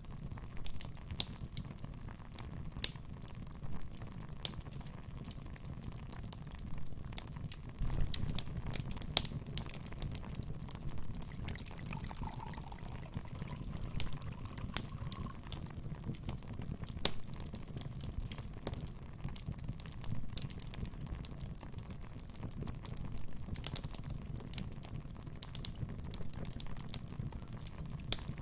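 Wood fire burning in a fireplace: a low steady rumble of flames with scattered crackles and pops throughout, and a faint whistling note about halfway through.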